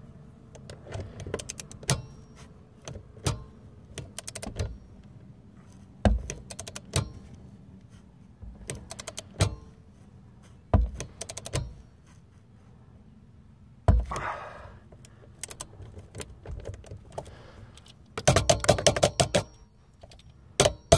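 Irregular clicks and knocks of tools and parts being handled during the roof vent install, with a short scrape about two-thirds of the way in and a quick run of rattling clicks near the end.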